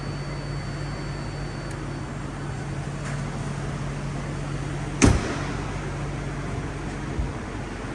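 2008 Range Rover's 4.4-litre V8 idling steadily, with a sharp bang about five seconds in and a lighter thump near the end.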